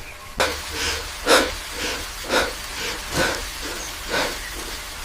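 A series of sharp, breathy hisses, roughly one or two a second, starting abruptly about half a second in.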